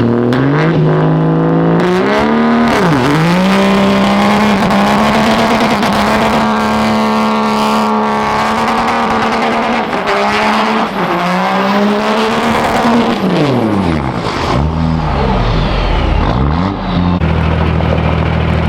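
Truck engine revved hard during a burnout. It holds a high note for several seconds, drops and climbs back several times, over a hiss of spinning tyres, then settles to a steady lower note near the end.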